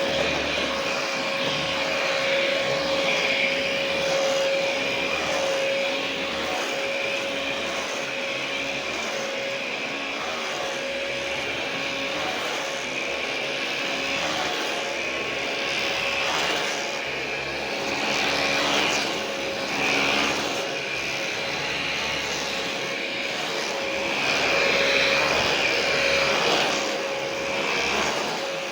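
Philips 7000 Series stick vacuum cleaner running steadily: a steady motor whine over a rush of air, swelling louder a few times in the second half.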